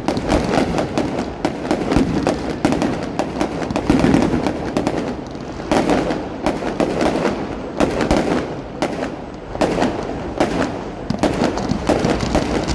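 Fireworks display going off in a dense barrage: rapid, overlapping bangs and crackles, many a second, with no break.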